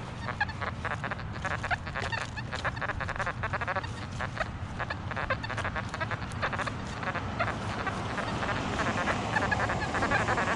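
Metal detector's audio tones chattering rapidly as the coil sweeps over ground packed with nails and iron trash: a busy run of short, honking, junky-sounding blips.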